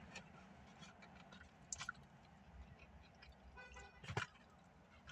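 Faint chewing and lip-smacking from someone eating barbecue ribs by hand, with scattered small wet clicks and two brief louder smacks, a little under two seconds in and again about four seconds in.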